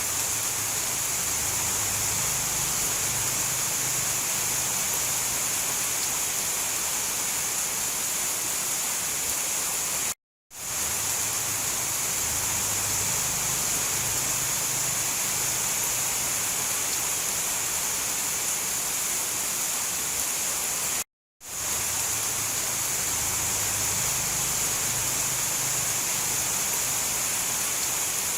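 Steady downpour of rain: a dense, even hiss with a faint low rumble underneath. It cuts out to brief total silence twice, about ten seconds in and again about twenty-one seconds in, where the looped recording restarts.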